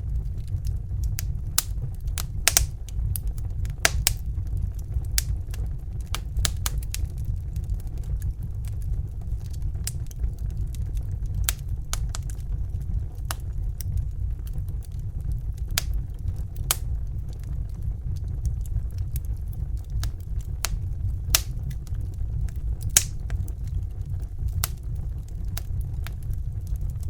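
Crackling fire: irregular sharp snaps and pops, a few of them louder, over a steady low rumble.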